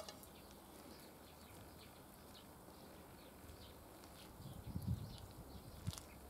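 Faint outdoor ambience of small birds chirping over and over in short high notes, with a brief low rumble about four and a half seconds in and a sharp click near the end.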